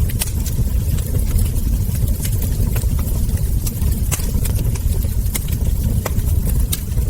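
Wood fire crackling, with frequent sharp pops from the burning logs over a steady low rumble.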